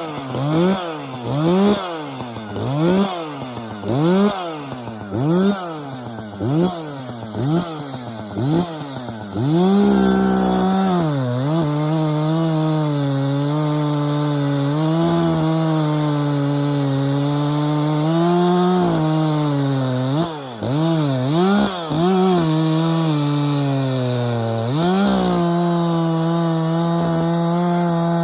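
Echo CS-590 chainsaw's 60cc two-stroke engine revved in quick bursts about once a second, then held at full throttle, its pitch sagging a little as the chain cuts into wood. A little past the middle it is blipped in bursts again before going back to a steady full-throttle cut.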